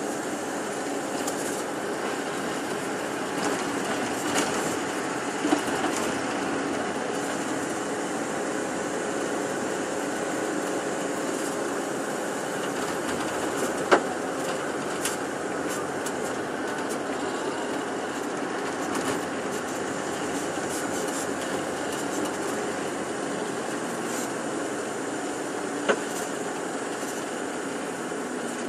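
Steady engine and road noise of a moving tour bus, heard inside the cabin, with a few short sharp clicks, the loudest about halfway through.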